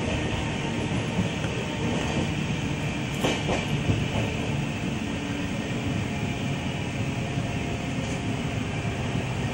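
Passenger train running on its rails, heard from inside the coach at an open window: a steady rumble of wheels and carriage, with a brief louder clatter about three seconds in.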